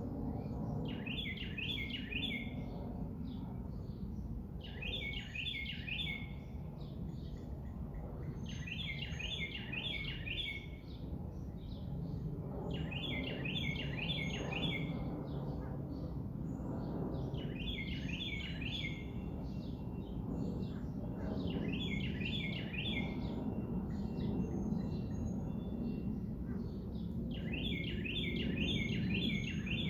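A songbird singing the same short song over and over, a quick run of repeated notes, about every four seconds. A steady low rumble of background noise runs underneath.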